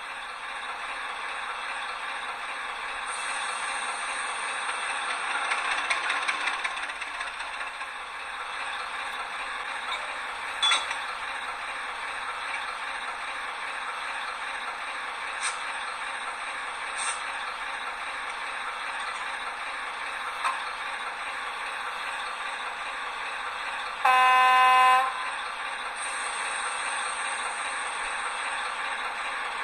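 H0-scale model freight train with Faccs hopper wagons rolling along the track with a steady running rattle and a few sharp clicks. Near the end a horn sounds for about a second, the loudest thing heard.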